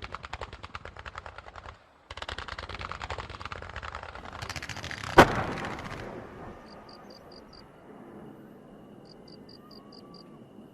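Fireworks crackling: rapid pops, about ten a second. They stop briefly about two seconds in, then resume, with one loud bang about five seconds in. After the bang the crackle fades out, and faint high chirps repeat in short runs.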